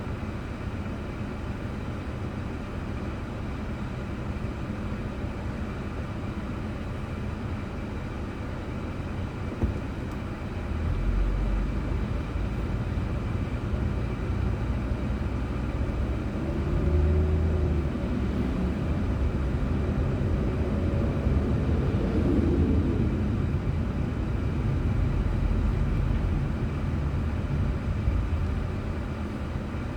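Car on the road heard through a dashcam: a steady low rumble of road and engine noise. It grows louder from about a third of the way in, with a single knock just before.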